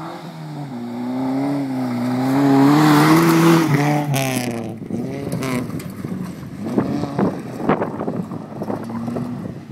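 Toyota Starlet KP60's engine revving hard as the car drives past close by, its note climbing to a loud peak with a rush of noise about three seconds in. After a sudden cut, the same engine revs up and down further off, with wind gusting on the microphone.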